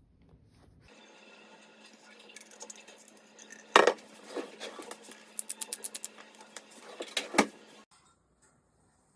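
Kitchenware clatter: dishes and cutlery knocking and clinking, loudest in a sharp knock about four seconds in, then a quick run of clinks and another knock, over a steady hum that stops near the end.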